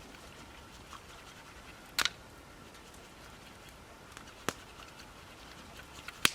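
Wood campfire crackling, with scattered small ticks and three sharp pops about two seconds apart.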